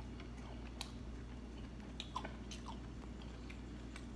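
Faint chewing of a mouthful of seafood with the mouth closed, with a few small wet mouth clicks scattered through, over a steady low room hum.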